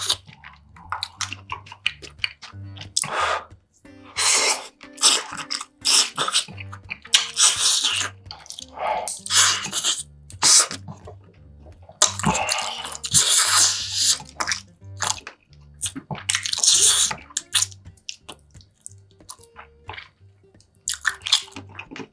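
Close-miked eating sounds: chewing with short clicks, broken by several longer wet slurps, about a second or two each, as soup and rice are eaten.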